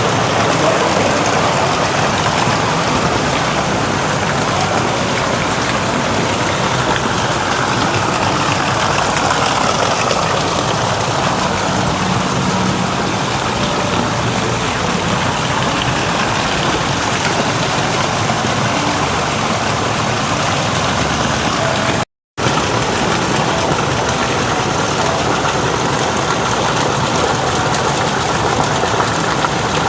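Steady rush of water falling in a garden water feature, loud and even. It cuts out for a split second about two-thirds of the way through, then resumes.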